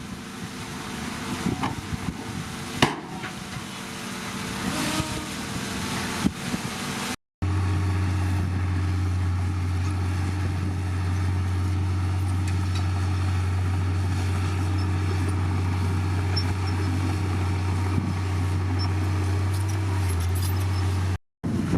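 Heavy diesel engine of earthmoving machinery running at a steady speed as a deep, even drone. Before it come several seconds of wind-like noise with scattered knocks and clanks, and the sound drops out briefly twice.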